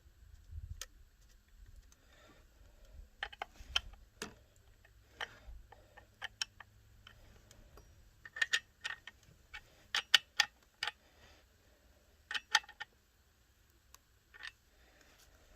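Scattered sharp metallic clicks and ticks, some single and some in quick clusters, from hand work on a Holzfforma G372XP chainsaw's bar and chain while the chain is tensioned tight.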